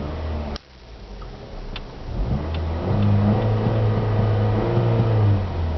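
Saturn Ion's Ecotec 2.2-litre four-cylinder engine revved from idle. The pitch climbs over about a second, holds steady for a couple of seconds, then drops back toward idle near the end.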